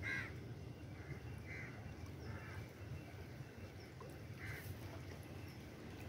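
Short bird calls, about five spread over a few seconds, the first the loudest, over a steady low rumble.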